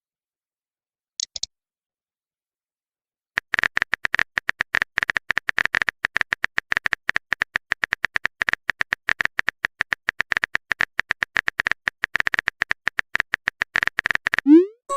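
Typing sound effect: a fast, uneven run of short clicks, many a second, starting about three seconds in and stopping just before the end. A short rising pop follows it, and there is a brief double click about a second in.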